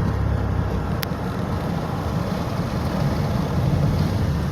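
Steady low rumble of road and engine noise from a car being driven, with a single sharp click about a second in.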